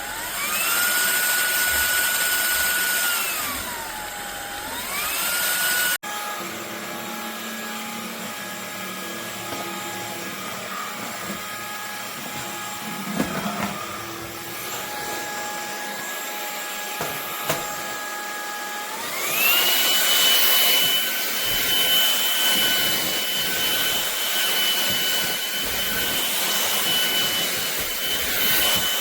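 MONSGA cordless stick vacuum's brushless motor running with a steady whine that changes pitch as the power level changes. It rises near the start, drops and rises again, then runs lower with a few knocks before stepping up to a higher, louder pitch about two-thirds of the way through.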